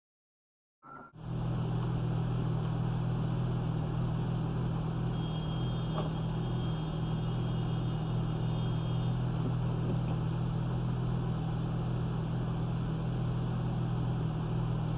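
Steady low road and engine noise inside a moving car, as picked up by a dashcam, starting abruptly about a second in.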